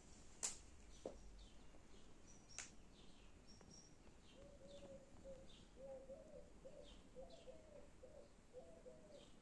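Faint birdsong: short, high, falling chirps repeating every half second or so, joined about four seconds in by a quick run of lower repeated notes. Two sharp clicks, the loudest sounds, come about half a second in and at about two and a half seconds.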